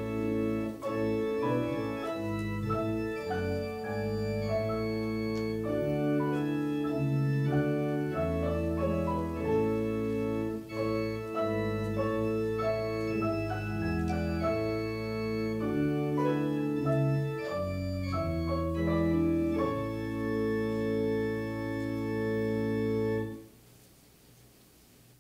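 Organ playing the service prelude in held chords over a slow-moving bass line; the final chord cuts off shortly before the end, leaving quiet room tone.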